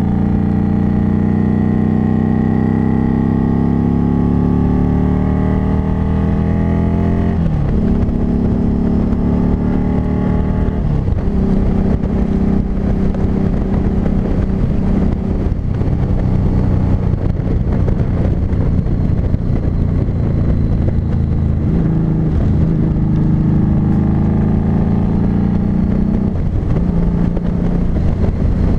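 Harley-Davidson Street 500's V-twin engine running under way. Its note rises as it pulls through a gear, then drops sharply at upshifts about seven seconds in, again about eleven seconds in, and near the end. In between it holds a steady cruise with wind noise.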